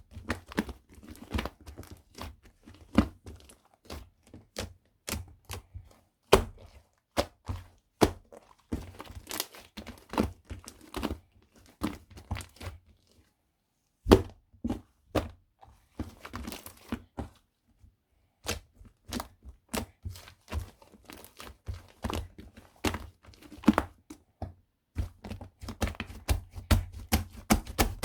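Irregular light clicks and knocks of small objects being handled, mixed with some crinkling and tearing. They stop briefly twice partway through.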